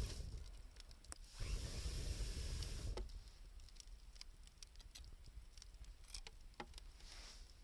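Wood fire of scrap 2×4 lumber and scavenged wood crackling, with scattered sharp pops and clicks. Two gusts of rushing, rumbling noise fill the first three seconds before it settles to the sparse crackle.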